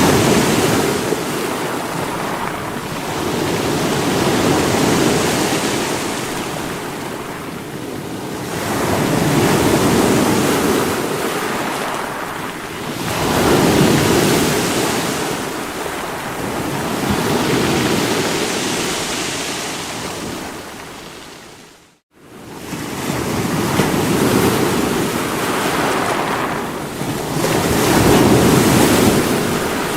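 Sea waves breaking against rocks, a continuous wash of surf that swells and ebbs every four to five seconds. About two-thirds of the way through the sound fades out to near silence for a moment and comes straight back.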